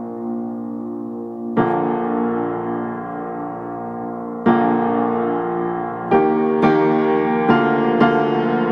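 Background piano music: slow sustained chords, with new notes struck more often in the last few seconds.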